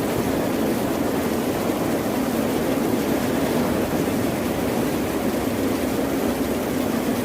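Steady rushing noise of ocean surf, an even wash of sound with no single wave break standing out.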